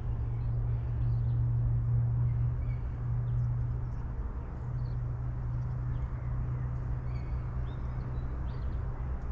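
A steady low motor hum, a little louder in the first few seconds, with short bird chirps scattered over it.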